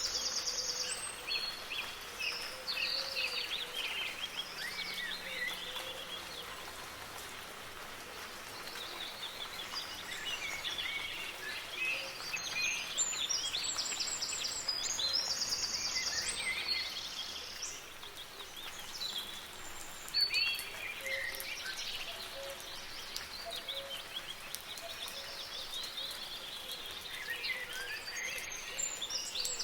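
Several songbirds singing and calling over a steady hiss of soft rain. A high, rapid, stuttering song returns three times: at the start, in the middle and near the end.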